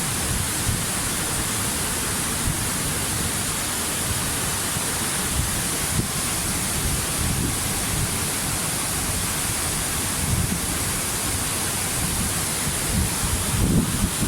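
Waterfall: a steady, even rush of falling water, with a few low buffeting gusts near the end.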